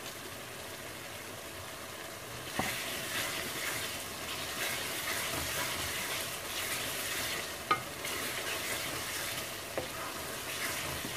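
Onion-tomato masala frying in an aluminium pan, stirred with a wooden spatula: a steady sizzle with scraping strokes. It grows louder about two and a half seconds in, and there are a couple of sharp knocks, one near the start and one in the middle.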